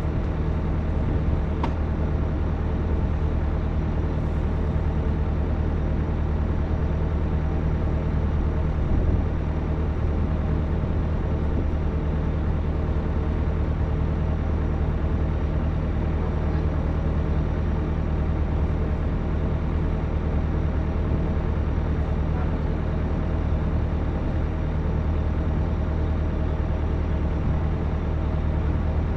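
Excavator engine running steadily with an even, unchanging hum.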